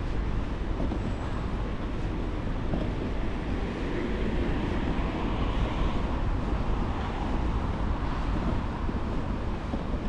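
Street traffic noise, steady with a low rumble, as a vehicle passes and swells louder around the middle.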